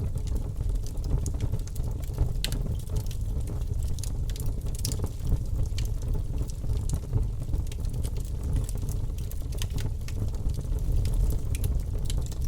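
Wood logs burning in a fireplace: a steady low rumble of the flames with scattered sharp crackles and pops throughout.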